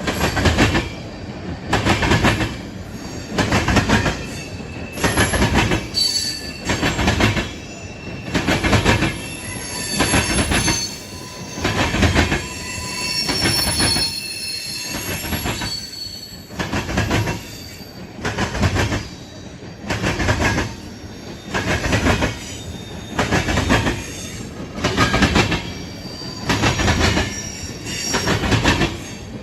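Train cars rolling past, their wheels clacking over the rail joints in a steady rhythm of about one clack a second. Thin, high wheel squeal comes through, mostly in the middle.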